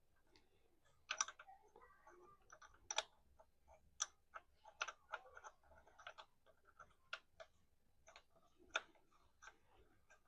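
Wheel lug nuts being threaded onto the studs by hand: a run of irregular sharp clicks and ticks.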